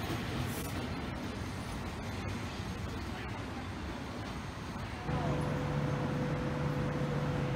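Low rumble of a train pulling away and fading. About five seconds in it gives way to a steady electric hum with a low and a higher tone from an ETR700 high-speed electric train standing at a platform.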